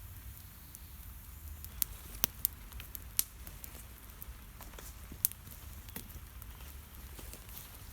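Campfire of wet wood burning, with a few sharp crackles and pops over a low steady rumble.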